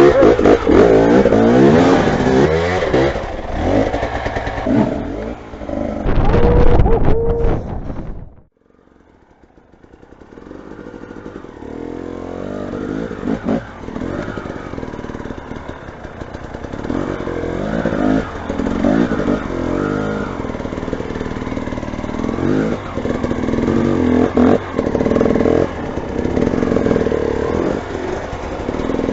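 Motorcycle engine running and revving, its pitch rising and falling. The sound drops away abruptly about eight seconds in, then builds back up and keeps varying in pitch.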